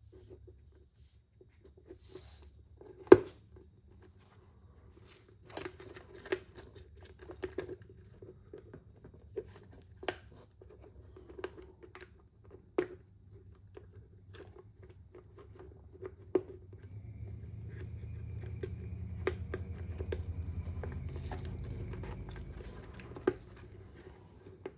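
Scattered clicks and knocks of hard plastic and metal RC car parts being handled and fitted together, the loudest sharp click about three seconds in. A low hum swells and fades in the second half.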